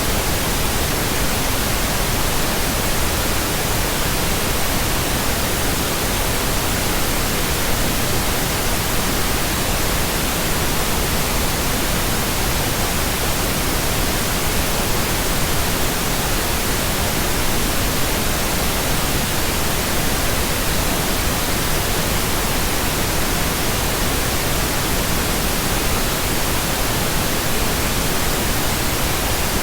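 Steady synthetic pink noise: an even, unchanging hiss across the whole range, with no tones or breaks.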